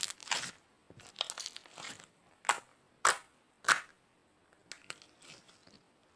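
Homemade slime being pressed and squished, giving crisp crackling and popping sounds, with three louder pops about half a second apart in the middle.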